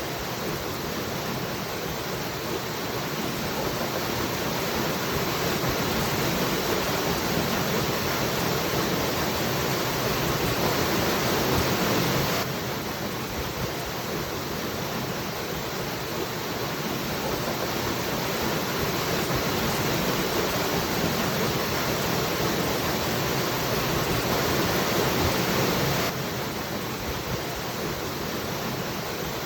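Waterfall rushing: a steady, even wash of falling water. The level drops abruptly twice, about 14 s apart, and each time slowly swells back up.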